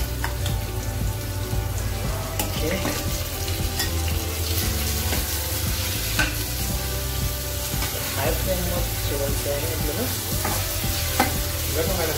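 Marinated chicken pieces and chopped onions frying and sizzling in a steel kadhai while a steel spoon stirs them, scraping and clinking against the pan now and then. A steady low hum runs underneath.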